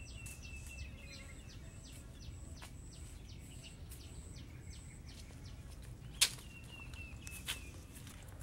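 Bird calling in a rapid series of short high notes, about two a second, with a thin descending whistle at the start and again near the end. A sharp click a little past the middle is the loudest sound, with a smaller one about a second later.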